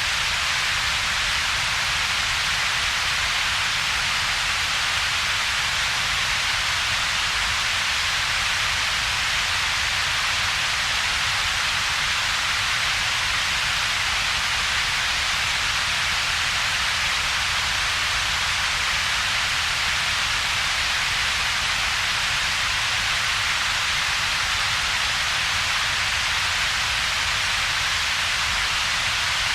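Synthetic double-peaked coloured noise: a steady, even hiss with its main band around 2 to 5 kHz and a weaker low rumble band, with a gap in the low mids.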